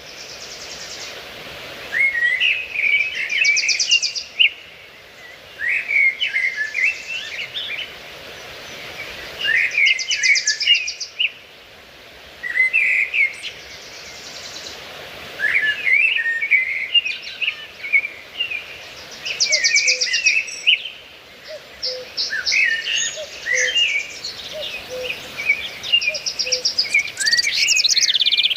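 Songbirds singing: chirping phrases of a second or two, coming every few seconds, mixed with a rapid high trill, over a faint steady outdoor background.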